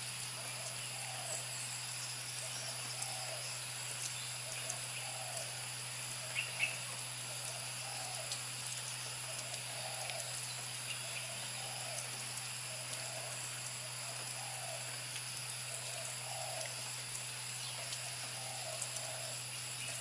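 A bird repeating a short, low call about once a second over a steady background hiss and low hum. A couple of sharp clicks come about six and a half seconds in.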